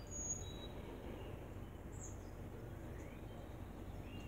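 A few short, high-pitched bird chirps, the clearest near the start and another about two seconds in, over a faint steady background noise.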